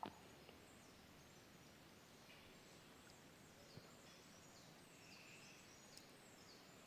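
Near silence: faint outdoor ambience with scattered soft, high chirps from small birds or insects.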